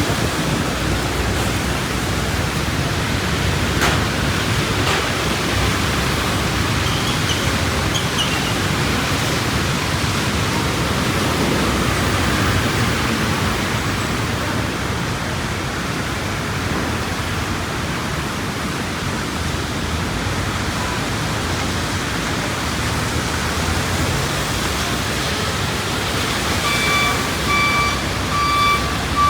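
Heavy rain falling steadily, a dense, even hiss. Near the end comes a run of about four short, evenly spaced beeps.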